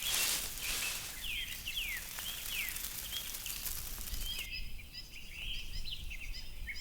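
Night-time forest ambience: a steady hiss of background noise with a run of short, quick downward-sweeping chirps. About four and a half seconds in the ambience changes, the low hiss falls away and only high, short chirps remain.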